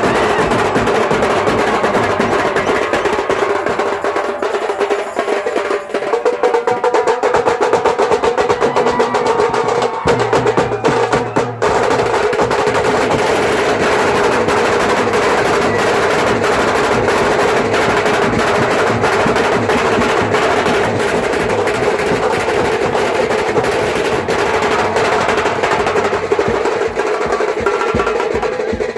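Adivasi band playing loud live music: fast snare-drum rolls and dense drumming under a held melody line.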